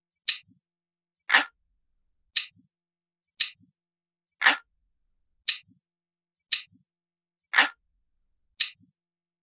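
Glass-like clock ticking sound effect, one crisp tick about every second with silence between. Every third tick is louder and fuller than the two lighter ones around it.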